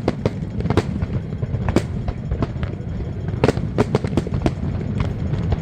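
Fireworks exploding: a string of sharp cracks and bangs at irregular intervals, thickest a little past halfway, over a steady low rumble.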